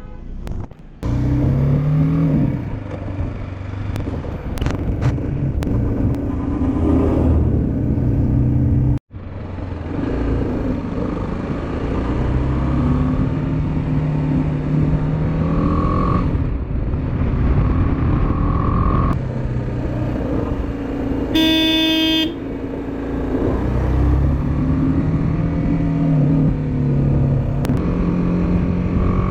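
Motorcycle engine running on the road, its pitch climbing and dropping repeatedly as it accelerates and shifts. The sound cuts out for an instant about nine seconds in, and a vehicle horn sounds briefly about two-thirds of the way through.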